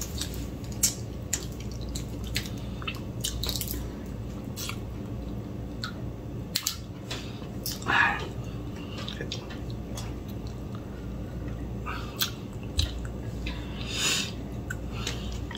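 A person chewing food, with scattered soft mouth clicks, over a low steady room hum.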